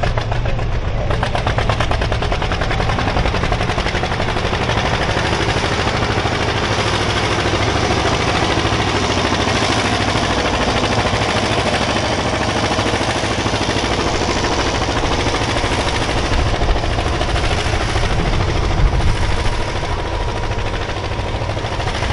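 Tractor engine running hard under load while pulling a sled, its exhaust firing in a rapid, steady string of pops.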